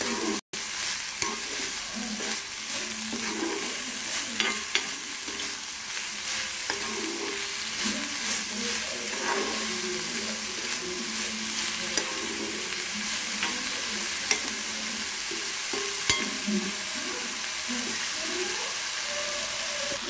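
Sliced sword beans and onion frying in oil in a pan, sizzling steadily as they are stirred. Now and then the stirring utensil clicks sharply against the pan.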